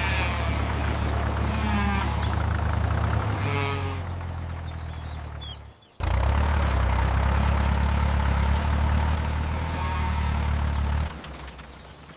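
A vehicle engine running steadily with a deep, even rumble. It fades away, stops abruptly about halfway through, then comes back and drops off about a second before the end. A couple of short animal calls sound over it in the first few seconds.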